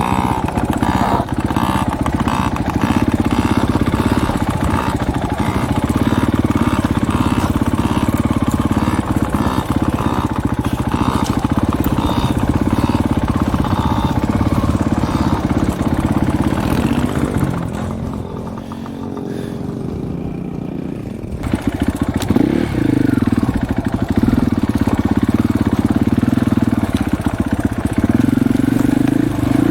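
Dirt bike engine running under way. About two thirds of the way through it eases back to a lower, quieter note for a few seconds, then revs up again and runs harder near the end.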